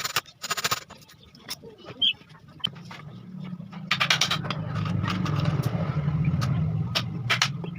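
Several sharp knocks and clicks, then a low mechanical hum that swells over a few seconds and eases off near the end.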